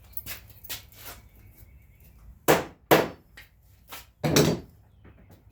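Sharp knocks on the wooden door: a few light clicks, then two hard knocks in quick succession and a longer, heavier knock a second and a half later.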